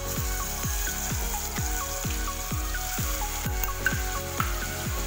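Ginger-garlic paste sizzling as it fries in hot oil in a steel kadhai. Background music with a steady beat of about two thumps a second runs underneath.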